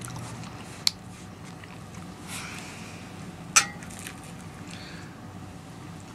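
Close-up eating sounds: soft chewing and biting of a salmon bagel, with two sharp clicks, the louder one about three and a half seconds in.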